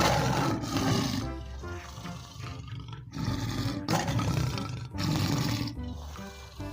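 Tiger roaring and growling several times in loud, rough stretches with brief pauses between them.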